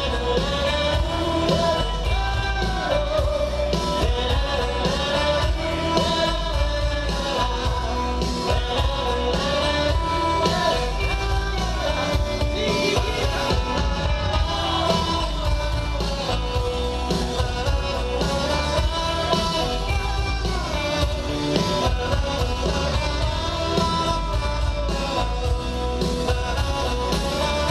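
Live rock band playing a song, with bass, drums and guitar under a sustained melody line that rises and falls.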